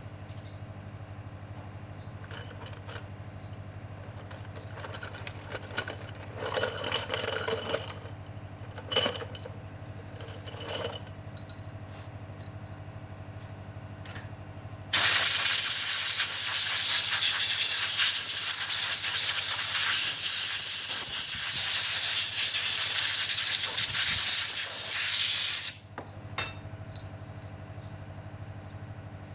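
A compressed-air blowgun hissing loudly and steadily for about ten seconds, starting and stopping suddenly. Before it come a few light clicks and knocks of parts being handled, over a steady low hum.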